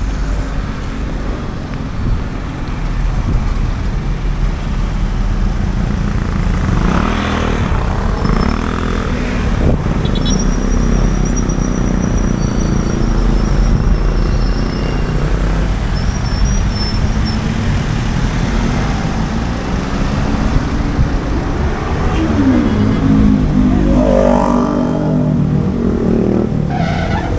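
Street traffic: a steady rumble of motor vehicles going by, with engines passing close and shifting in pitch about a quarter of the way in and again near the end.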